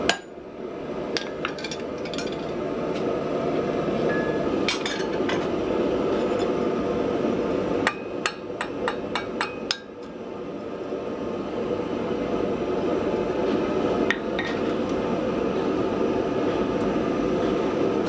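Light hammer taps and metal clinks on steel post-vise parts being fitted together, scattered, with a quick run of several strikes about eight to ten seconds in. A steady low hum lies underneath.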